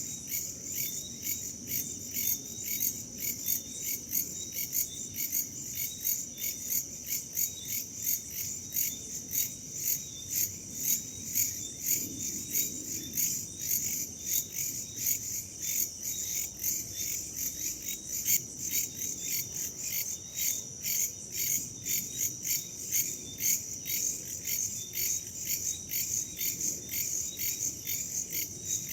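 Chorus of crickets and other insects chirping in rapid, steady pulses, over a faint low rush of wind.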